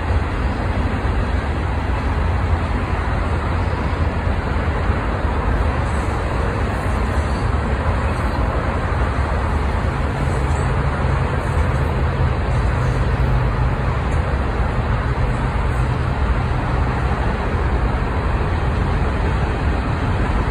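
Union Pacific manifest freight train's cars rolling past: a steady, unbroken rumble of wheels on the rails.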